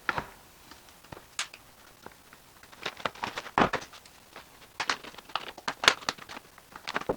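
Irregular sharp clicks and snaps, coming in clusters, of a piece being cut by hand.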